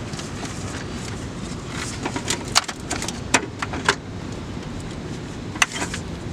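A few sharp metallic clinks and knocks of tools and car parts being handled, mostly in a cluster in the middle and once more near the end, over a steady low background rumble.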